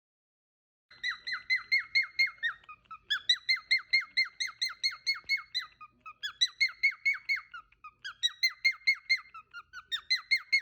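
Cockatiel calling in quick runs of falling chirps, about five or six a second, with short breaks between the runs.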